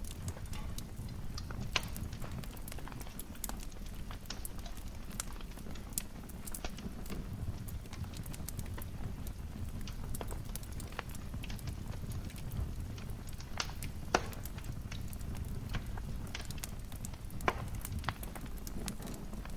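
Wood fire burning in a fireplace: a steady low rumble of flames under constant small crackles, with a few sharper pops from the logs.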